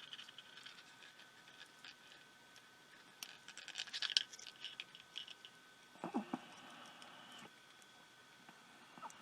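Faint clicking and scratching of small electronic parts and cables being handled and connected, with a cluster of light clicks about three to five seconds in.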